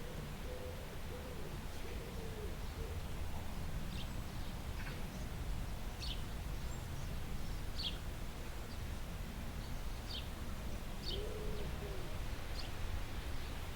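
Bird calls: soft low hooting or cooing notes at the start and again about eleven seconds in, with short high chirps every second or two, over a steady low rumble.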